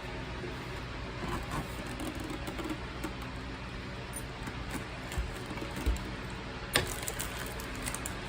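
Scattered light clicks and taps of small hand work on the CUE screen unit, such as screws being tightened, with two soft thumps and a sharp click near the end, over a steady low hum.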